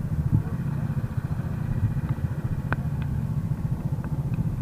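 Racing kart engine running steadily at low revs, a low pulsing drone, with a few faint clicks.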